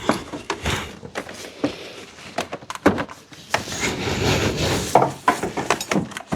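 Irregular clicks, knocks and rubbing as intake parts and pipes are handled and pushed into place on an engine.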